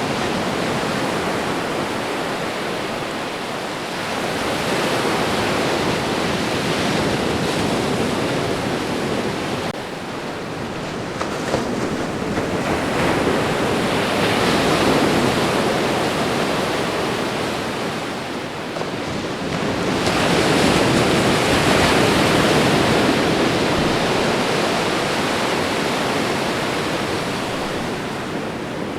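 Ocean surf washing onto a shore: continuous rushing water noise that swells as each wave comes in and eases as it draws back, three times, about every seven seconds.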